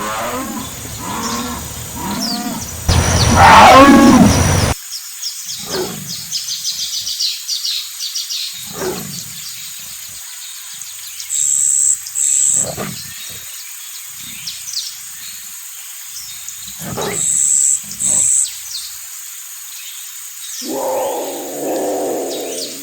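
Jaguar calling: a loud, drawn-out roar about three seconds in, then a series of short, separate grunting roars spaced a few seconds apart.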